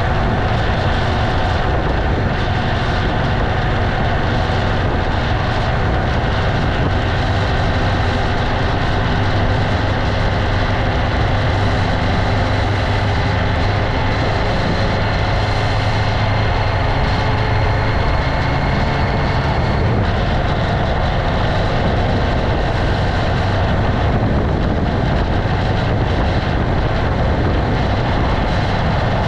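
Motorcycle engine running steadily while riding along. The note eases slightly about two-thirds of the way through.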